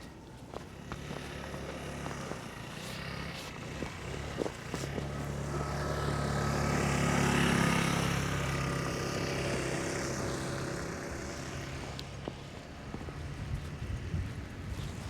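A motor vehicle's engine draws near, passes about halfway through and fades away, with a steady low hum.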